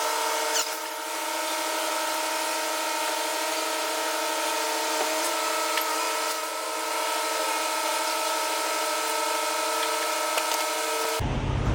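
Diesel pump nozzle running, fuel rushing into a semi truck's tank: a steady whine over a hiss that cuts off suddenly near the end.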